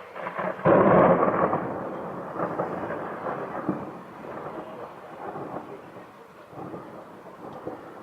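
Thunder: a sudden loud clap just under a second in, followed by rumbling that slowly fades with a few smaller swells over the following seconds.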